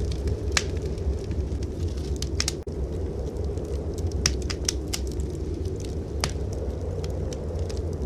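Wood fire crackling in a fireplace: sharp, scattered pops, several bunched together in the middle, over a steady low rumble. The sound dips out for an instant about two and a half seconds in.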